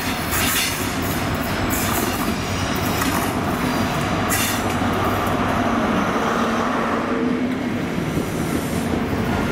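High Speed Train's Class 43 diesel power car and coaches rolling into the platform, a steady rumble of engine and wheels on rail. A few brief high squeals come in the first half.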